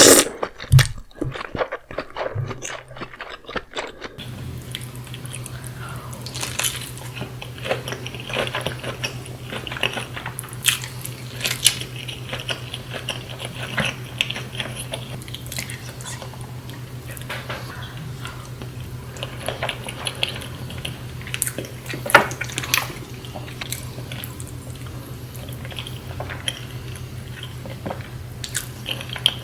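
Close-miked eating of a saucy seafood boil: repeated wet bites, chewing and smacking with occasional crunches and clinks of utensils. A steady low hum runs underneath from about four seconds in.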